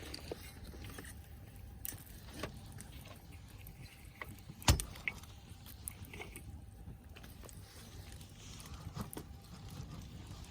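Scattered small clicks and knocks over a low steady rumble, with one sharp, loud knock a little under halfway through.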